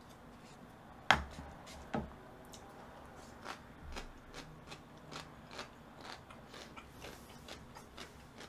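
Close-miked chewing and mouth smacking, small wet clicks coming irregularly. A sharp clack about a second in and a softer one about a second later, a metal spoon and utensils set down on the table.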